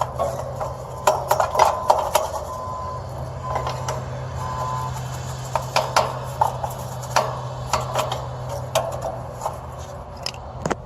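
Hand tools working on an air-conditioning condenser as its screws and fittings are loosened: scattered sharp clicks and knocks, a few brief squeaks in the first half, and a steady low hum underneath.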